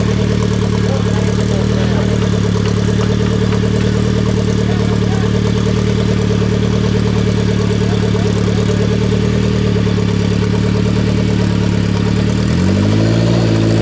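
Off-road competition buggy's engine idling steadily, then revved up and back down once near the end.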